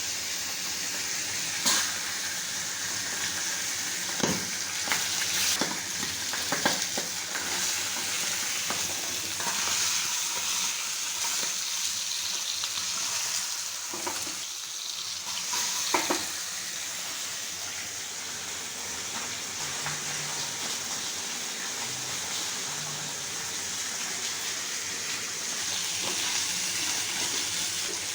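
Food frying in hot oil in a pan, a steady sizzle, with a handful of sharp knocks from a utensil being stirred against the pan during the first half.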